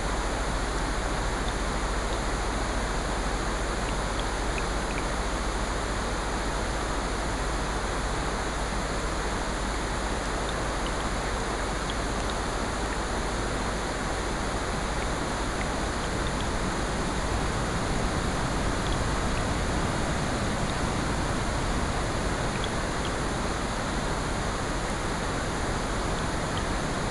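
A steady, even wash of rain and ocean surf layered together as a continuous sleep-sound bed, with faint, scattered ticks.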